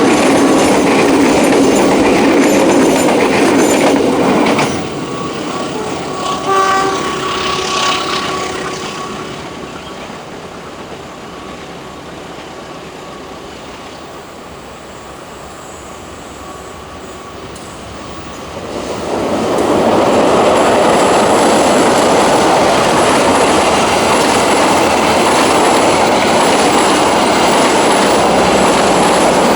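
Train running past on the track, loud at first, then fading. A short horn blast comes about seven seconds in, and the rumble of train wheels builds up loud again from about nineteen seconds on.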